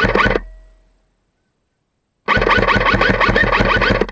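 Rapid full-auto fire from an airsoft gun, loud and clipped. A short burst ends about half a second in, and a longer burst of about two seconds starts a little past two seconds.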